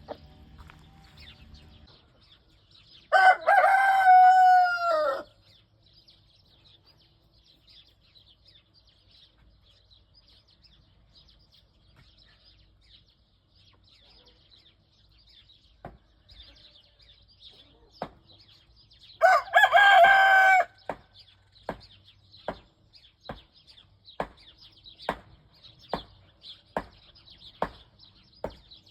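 A rooster crowing twice, each crow about two seconds long and dropping in pitch at the end; the first comes a few seconds in, the second about two-thirds of the way through. Faint high bird chirping runs underneath, and in the second half short sharp sounds come about one a second.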